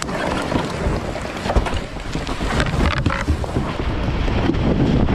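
Rushing whitewater with wind buffeting the microphone, a dense rough roar that grows louder about halfway through.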